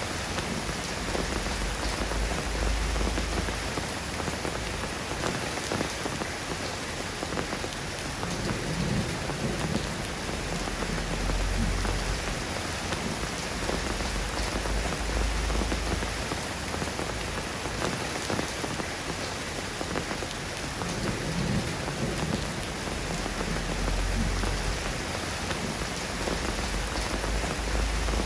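Steady soft rain falling, an even hiss of drops, with a deep low rumble that swells and fades three times.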